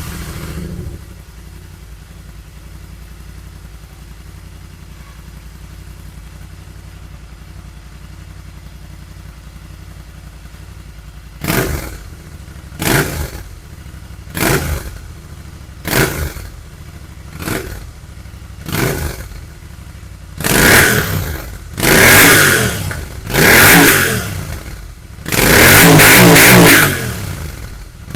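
Royal Enfield Interceptor 650 parallel-twin running through a Barrel BE-10 Bass Master slip-on exhaust with its baffles fitted. It idles steadily just after starting, then takes six short throttle blips about a second and a half apart, then four bigger, louder revs near the end, one held for about two seconds.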